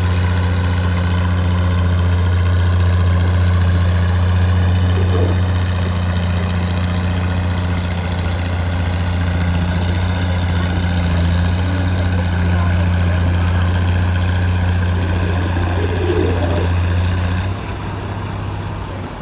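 Oliver 880 tractor engine running loud and steady at a constant speed, then dropping suddenly in level near the end.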